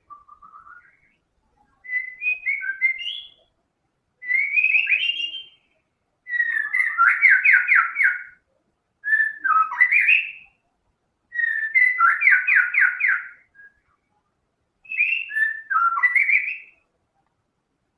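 White-rumped shama singing vigorously: seven loud whistled phrases of one to two seconds each, separated by short pauses. The first phrase is faint, and some later phrases hold fast runs of repeated notes.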